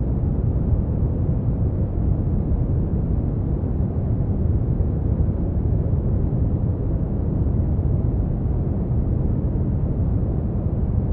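Steady brown noise: an even, deep rumbling hiss with most of its energy in the bass and little above the midrange, unchanging throughout.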